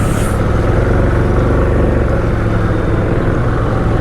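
ATV engine running steadily as the quad moves along the trail, a constant low engine sound.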